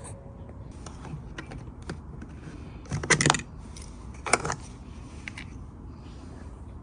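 Scattered clicks and small clattering knocks of hand tools and door-panel screws being handled, with a louder clatter about three seconds in and another a little over four seconds in.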